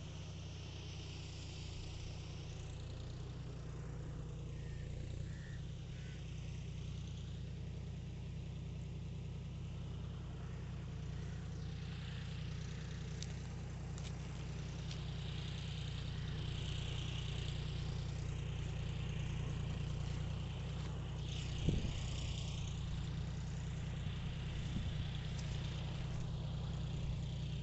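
Tractor engine running steadily while ploughing, slowly growing louder, with one sharp knock about 22 seconds in.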